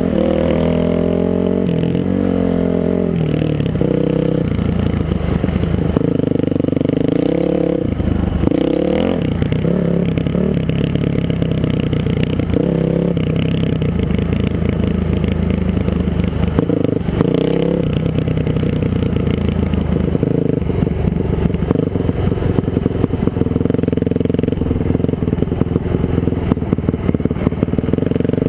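Dirt bike engine running under load while riding, its pitch rising and falling again and again as the throttle opens and closes.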